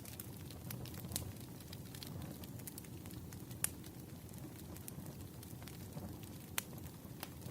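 Wood fire burning, with scattered crackles and pops over a low steady rumble; the sharpest pop comes about three and a half seconds in.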